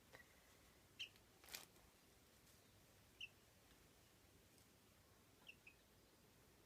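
Baby common myna chick giving four faint, short, high cheeps, spaced a second or more apart, with a brief rustle about a second and a half in.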